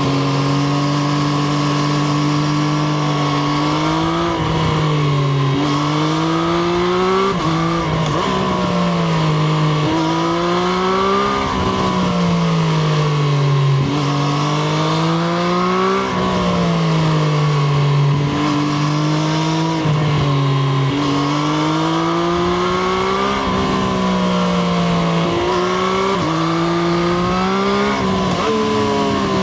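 Triumph Street Triple RS inline-three engine, heard from onboard the motorcycle, revving up and dropping back over and over, its pitch climbing and falling every couple of seconds as the bike accelerates and backs off.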